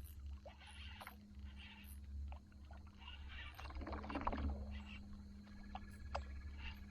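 Quiet boat-side sounds of a hooked bass being fought: scattered small clicks and water sounds over a steady low hum, a little louder about four seconds in.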